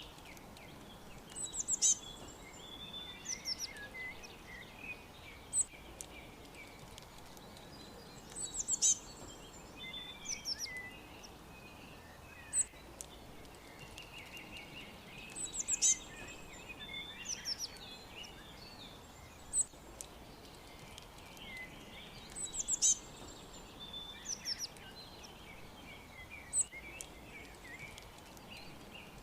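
Several songbirds chirping and twittering over a faint steady background hiss. A quick, high phrase of falling notes comes back about every seven seconds, with softer warbling notes between.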